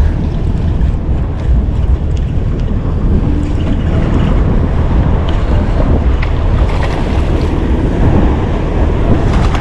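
Wind buffeting the microphone in a steady low rumble on an open boat, with water sounds around the hull.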